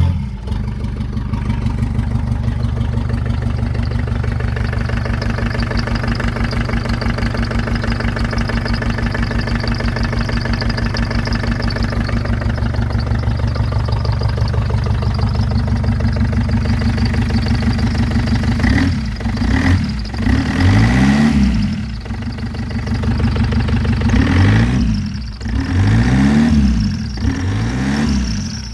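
ZMZ-514 four-cylinder diesel engine idling steadily, then revved up and down several times in short blips from about nineteen seconds in.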